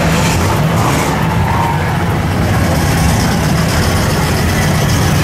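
Engines of classic American cars running in slow, crowded cruising traffic: a steady low rumble.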